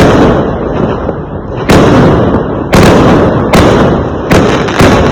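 Loud firework bangs: about six sharp blasts, roughly a second apart, each trailing off before the next.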